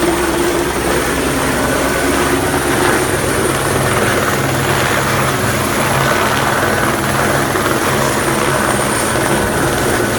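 Helicopter running close by: steady rotor and engine noise with a thin high whine over it.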